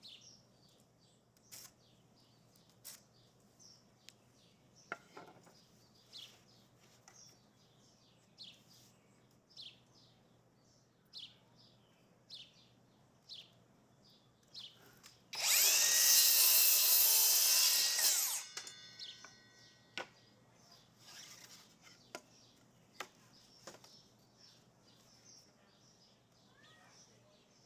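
A power drill runs in one burst of about three seconds roughly halfway through, then winds down. Before and after it there are only sparse short bird chirps and small ticks.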